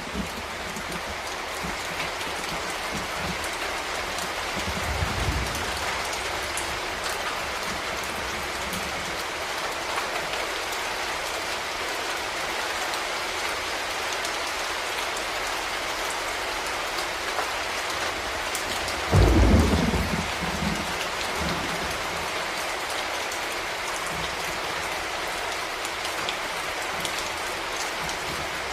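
Steady heavy rain falling, with a soft low rumble of thunder about five seconds in and a sudden louder thunderclap rolling away about nineteen seconds in.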